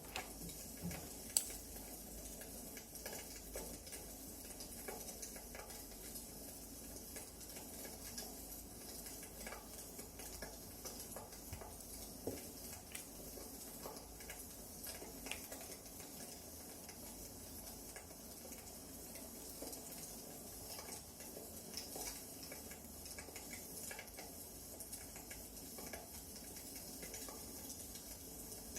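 Wood fire crackling: a steady soft hiss dotted with irregular small snaps, and one sharper pop about a second and a half in.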